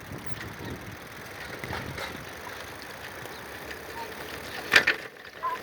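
Steady rushing noise of a bicycle coasting fast downhill, with one sharp knock a little before the end.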